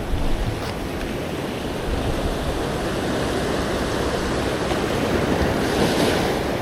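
Ocean surf surging and washing against a rock ledge, a steady rush of whitewater, with wind buffeting the microphone. The wash swells a little near the end.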